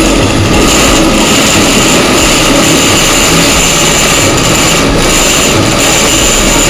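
Homemade turbojet engine running on the test stand: a loud, steady rush of air and combustion with a steady high whine over it.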